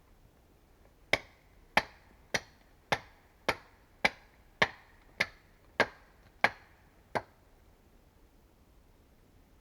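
Tool striking wood in a steady rhythm: eleven sharp blows, a little under two a second, each with a short ring.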